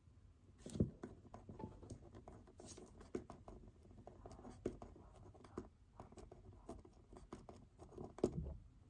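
Pen writing on paper: a run of small taps and light scratches as the pen moves over the page, with a louder knock about a second in and another near the end.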